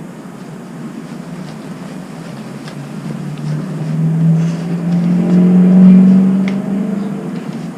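A motor vehicle engine passing close by. It grows louder, with a slight rise in pitch, to a peak about six seconds in, then fades.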